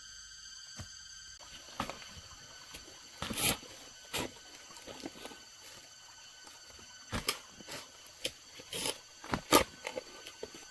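Irregular sharp knocks and clicks, a few of them louder, over a steady high-pitched ringing.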